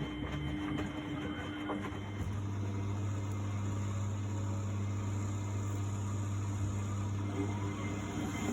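1999 Miele Novotronic W828 front-loading washing machine running through its Cotton 60 cycle: a steady low hum with a few constant tones under a faint even whoosh.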